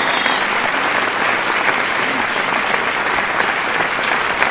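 A crowd applauding: many hands clapping in a dense, steady wash with no break.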